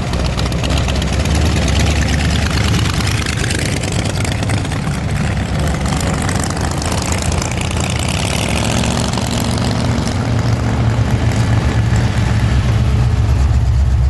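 Vintage cars' engines running at low speed as the cars roll past, a steady low engine note that grows louder in the last few seconds as one car draws close.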